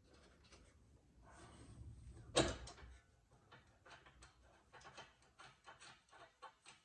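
Small metal clicks and ticks with one louder clank about two and a half seconds in: nuts being put on by hand onto the studs of a newly fitted sway bar link.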